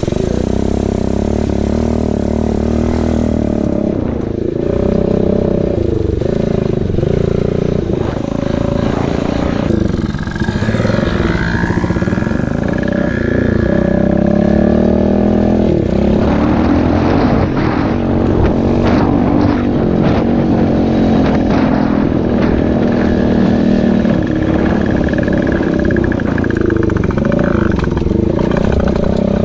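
Pit bike's small single-cylinder engine running under way, its pitch rising and falling with the throttle.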